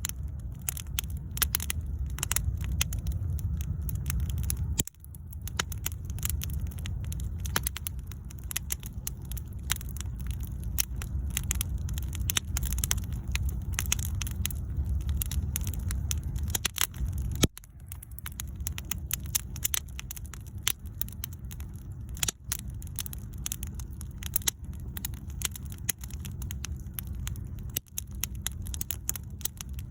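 Wood bonfire burning: frequent sharp crackles and pops over a steady low rumble, with a couple of sudden brief dropouts.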